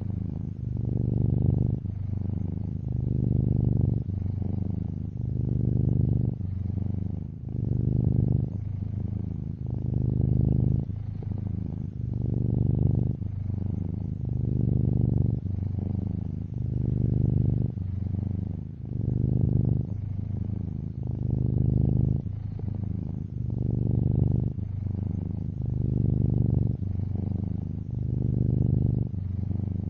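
Domestic cat purring steadily, close up. The purr swells and fades about every two seconds as the cat breathes in and out.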